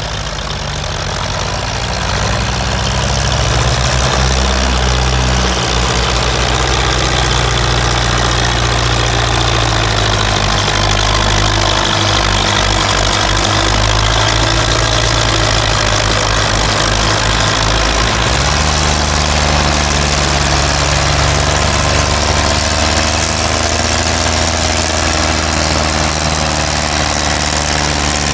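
Tractor engine running steadily, its low note shifting to a different engine speed about two-thirds of the way through.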